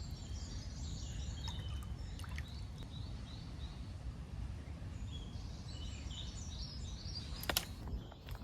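Small birds singing, with short repeated chirping notes, over a steady low background rumble, and a sharp click near the end.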